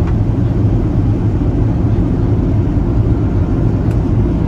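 Steady low rumble of a landing Boeing 737-800's CFM56-7 jet engines.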